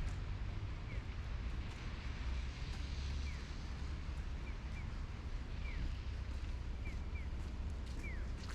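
Snowstorm street ambience: a steady low rumble of wind and city traffic, with short, faint falling chirps about once a second.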